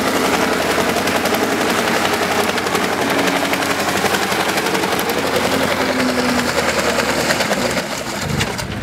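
Car engine held at high revs during a burnout, with a rapid, crackling staccato from the engine as the rear tyres spin. It eases off near the end.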